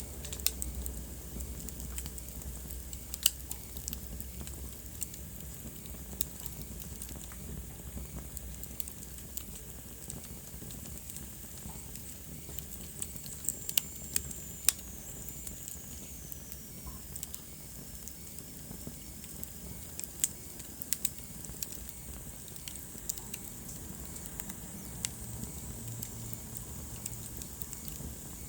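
Wood fire burning in a fireplace: a low steady rush of flame with irregular crackles and a few sharp pops. About halfway through, a faint high whistle slides down in pitch.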